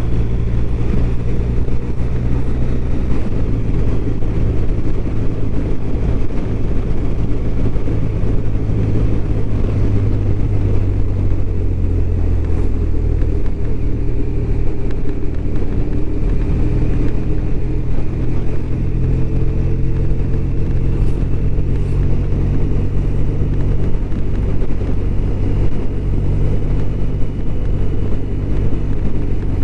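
BMW R1200RT flat-twin engine running steadily while the motorcycle is ridden at a cruising pace, its note shifting a little in pitch about twelve seconds in.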